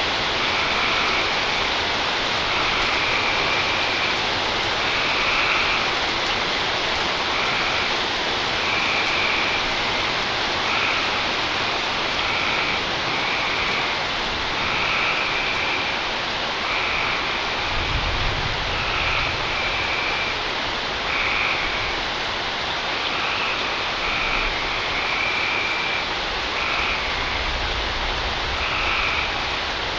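Steady heavy rain during a night thunderstorm, with frogs calling over it in short chirps about once a second. A low rumble of distant thunder comes about 18 seconds in and again near the end.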